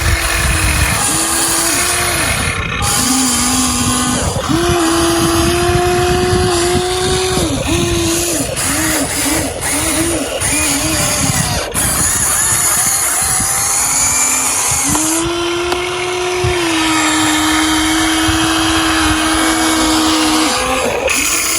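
Electric motors and gearboxes of a Huina remote-control excavator whining in bursts of varying length as its functions are worked, the pitch sagging briefly as each burst starts and stops. Short bursts follow one another quickly in the first half, and a long run of several seconds comes past the middle.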